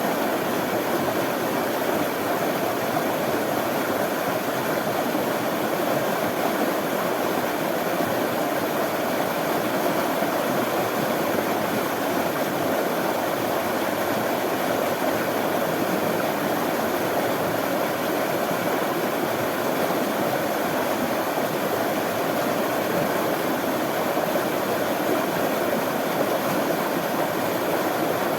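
Running water flowing: a steady, even rush that does not change.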